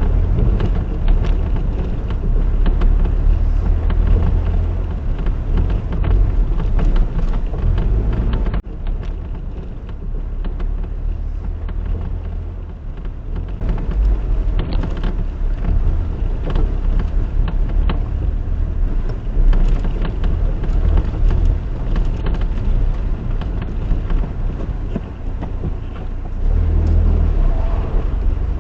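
Honda S660 being driven, a steady low engine and road rumble with a brief break about nine seconds in.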